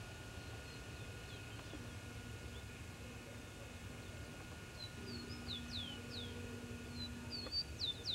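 Birds calling outdoors: quiet at first, then from about five seconds in a quick series of short, high chirps that each slide downward in pitch, over a low steady background hiss.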